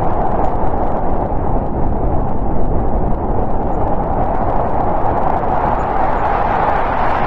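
Snowstorm wind blowing steadily, a dense rushing noise with most of its weight in the low and middle range.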